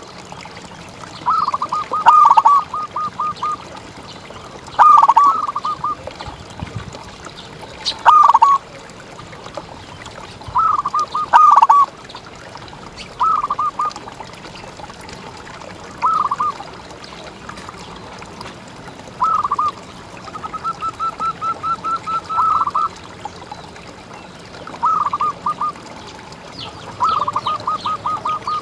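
Zebra dove (perkutut) singing its cooing song again and again. Each phrase is a few rising notes followed by a quick run of short clipped notes, repeated every two to three seconds.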